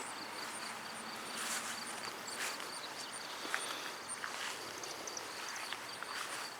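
Crickets chirping outdoors: a steady, high, rhythmic chirp repeating about three times a second, with light rustles about once a second.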